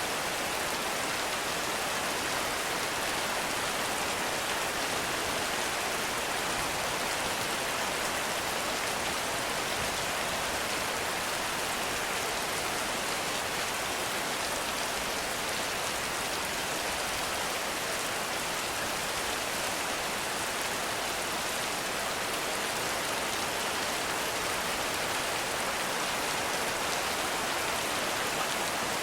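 Heavy rain falling steadily in a forest, an even hiss of many drops without a break.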